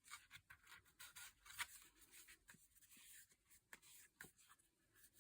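Near silence with faint rustles and light taps of a paper notebook and its card cover being handled.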